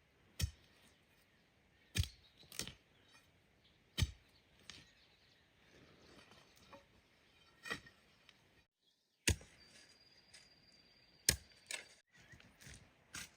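Repeated sharp strikes of a hand tool, irregular, about one every one to two seconds. A faint high steady tone sounds briefly near the end.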